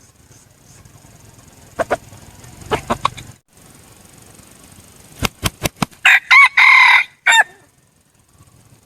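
Red junglefowl rooster crowing once, a short, broken crow about six seconds in. Before it come a few soft clucks and a quick run of sharp clicks.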